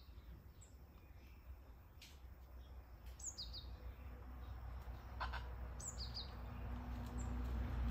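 Small bird chirping: short, high, falling chirps, mostly in pairs, repeated every couple of seconds, over a low steady rumble that grows louder toward the end. A single sharp click about five seconds in.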